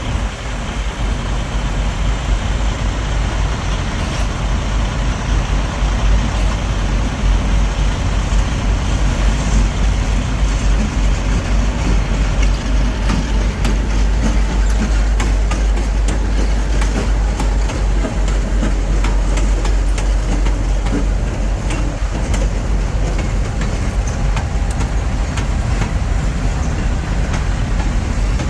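Train cars rolling past on the track with a continuous loud rumble, and many sharp clicks from the wheels and rails coming through from about halfway in.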